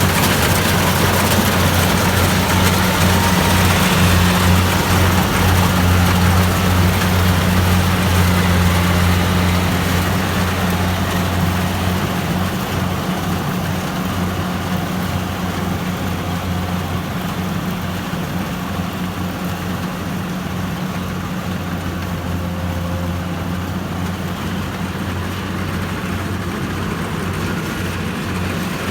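Kubota DC-70 Plus combine harvester's diesel engine running steadily with a deep hum, growing gradually quieter after about ten seconds.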